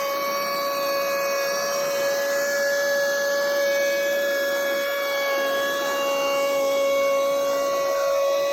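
Logosol E5 electric speedsaw on an M8 sawmill cutting steadily along a log, a constant high whine over the rasp of the chain in the wood.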